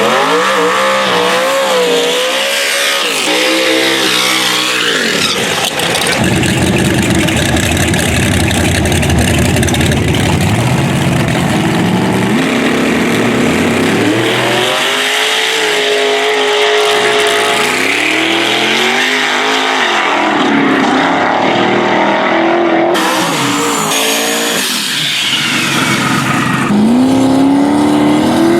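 Loud drag race car engines revving, their pitch climbing and falling again and again. A stretch of hard, full-throttle running comes a few seconds in, with more rising revs near the end.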